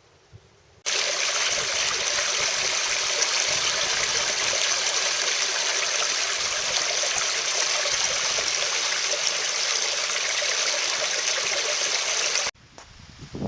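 Steady rush of running water, starting abruptly about a second in and cutting off suddenly near the end.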